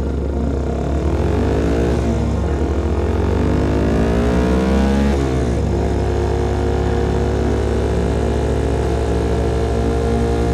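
CFMOTO Papio SS single-cylinder engine through a KO Lightning slip-on exhaust, accelerating through the gears. The revs climb, fall at a shift about two seconds in, climb again for a few seconds, fall at another shift, then hold steady at a cruise.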